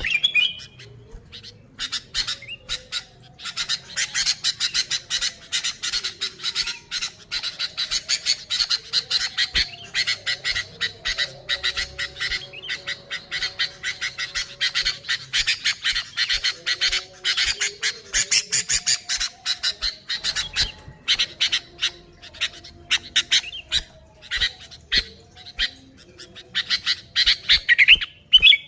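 Sooty-headed bulbul (kutilang) calling in rapid, harsh chattering. The calling is nearly continuous, with short lulls just after the start and about two-thirds through.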